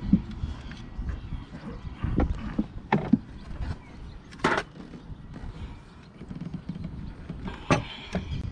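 Scattered sharp knocks over a low, fluctuating rumble.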